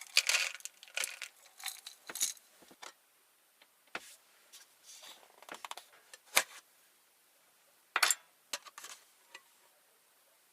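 Small objects being handled: a run of light clicks, clinks and rustles in several clusters with short pauses, the sharpest a little after six seconds and around eight seconds in.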